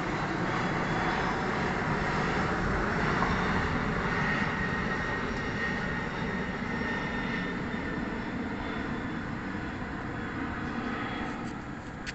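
Airbus A320 twin-engine jet airliner flying past: a broad rush of engine noise with a faint high whine, loudest a few seconds in, then slowly fading.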